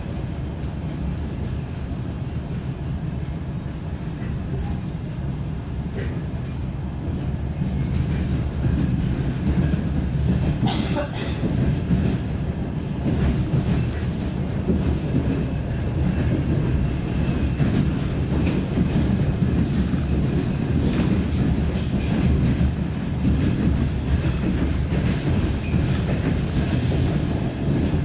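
DR1A diesel train running along the line: a steady low rumble of engine and wheels, with occasional clicks of the wheels over rail joints.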